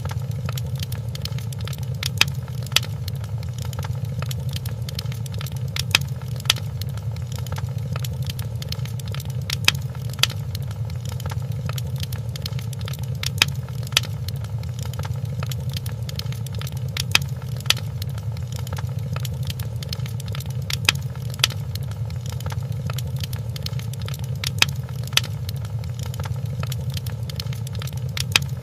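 Wood fire crackling in a fireplace: a steady low rumble with constant small crackles, and sharper pops in pairs every few seconds.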